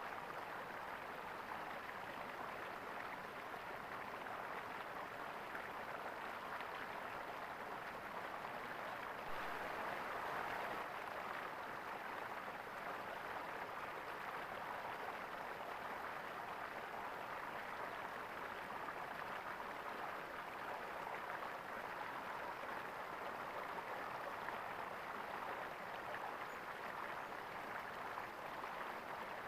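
Water gurgling and flowing steadily, an even rushing wash that swells slightly about a third of the way in.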